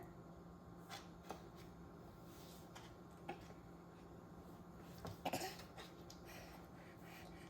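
Soft feeding sounds of a baby being spoon-fed rice porridge: scattered small clicks and taps, with a brief louder cluster about five seconds in, over a faint steady hum.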